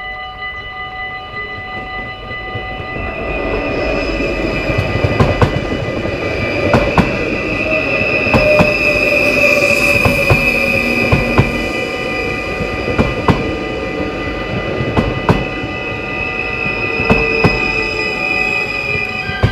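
Level-crossing warning bells ringing, then two electric passenger trains running through the crossing past each other from about 3 seconds in: a loud rumble of wheels on rail with repeated sharp clacks over the rail joints and a high steady whine, with a slowly falling tone as a train goes by.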